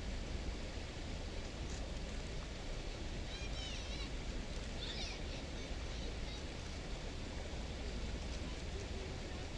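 Steady outdoor background noise, an even hiss with a low rumble, with two short runs of high chirps about three and a half and five seconds in.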